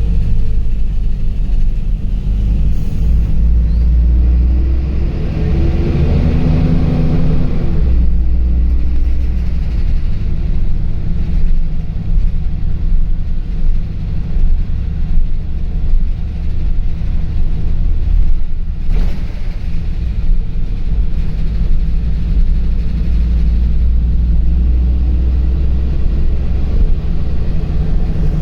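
Ride inside a LiAZ 5292.65 city bus: a steady, heavy low engine and road rumble. A few seconds in, the engine note rises and falls as it pulls.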